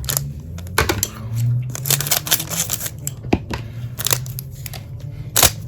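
Trading cards being handled and slid against one another, making a string of short papery clicks and flicks, with a few sharper ones, over a low steady hum.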